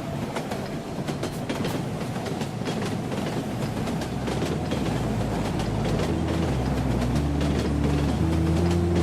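Train wheels clicking over rail joints, used as the intro to a dance track. Low synth notes come in about four seconds in and build up as the music gets louder.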